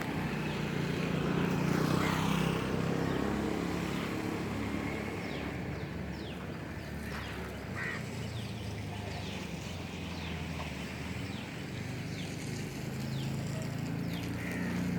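A steady low engine hum, louder in the first few seconds, with short high falling chirps scattered over it.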